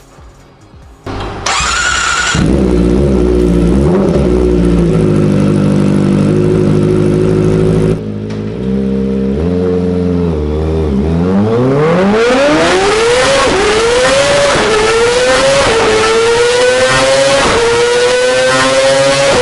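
Kawasaki Ninja ZX-25R's 250 cc inline-four with a Yoshimura exhaust: it comes in about a second in and runs steadily at low revs, then accelerates hard through the gears. The pitch climbs very high, with about four upshifts, each a brief dip in pitch.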